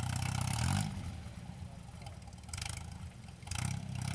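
UAZ off-road vehicle's engine running and revving up briefly just before a second in and again near the end, with two short bursts of rushing noise in the second half.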